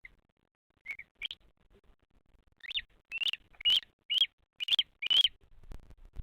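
Bearded vulture chick calling from the nest: two short chirps, then a run of six louder chirps at about two a second, each rising and then dropping in pitch.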